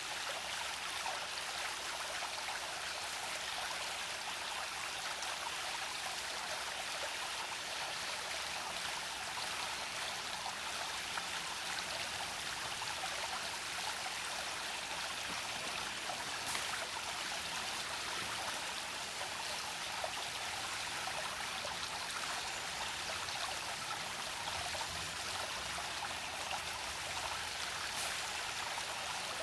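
A small brook babbling over stones: a steady, even rush of running water with fine trickling detail.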